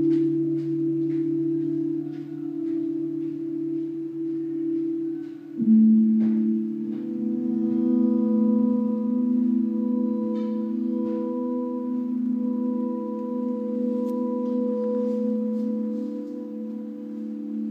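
Sustained electronic drone tones from an interactive sound installation whose sound changes with what is drawn on its iPad. A chord of steady tones holds, jumps to a new set of pitches about five and a half seconds in, then adds higher held tones, with faint ticks over it.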